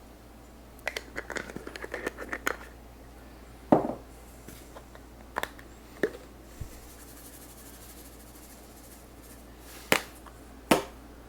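Kitchen utensils and containers handled while a dish is garnished: a quick patter of small clicks, then a few single sharp taps and knocks, over a faint steady hum.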